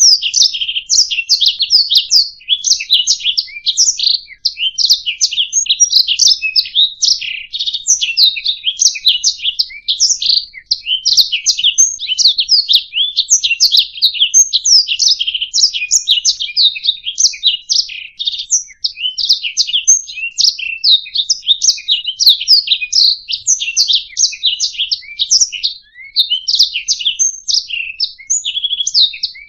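Domestic canary singing a long, unbroken song of rapid trills and chirps.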